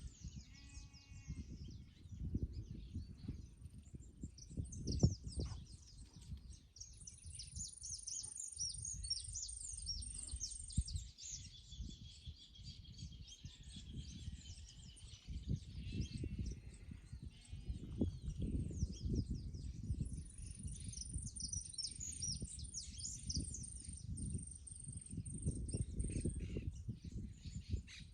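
Many birds chirping and calling outdoors, over a low rumbling background noise. A thin, high, steady buzz sounds twice, from about 7 to 11 seconds in and again from about 20 to 27 seconds in.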